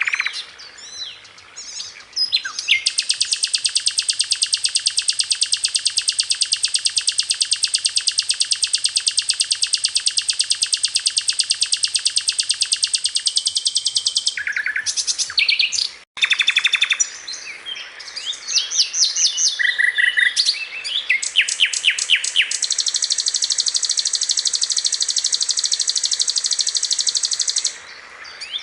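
A sikatan londo flycatcher singing nonstop: long, very fast high-pitched trills of rapidly repeated notes, broken up by a short stretch of varied quick chirping phrases around the middle.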